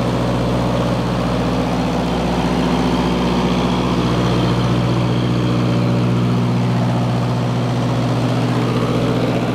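Kohler 10 kW generator's Ford four-cylinder engine running steadily at governed speed under heavy electrical load, with an even hum.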